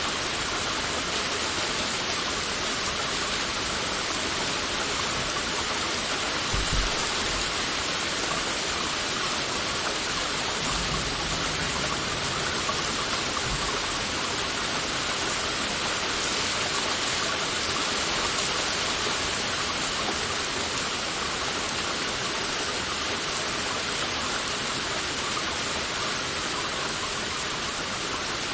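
Heavy rain falling steadily, an even hiss of drops, with a brief low thump about seven seconds in and a faint low rumble a few seconds later.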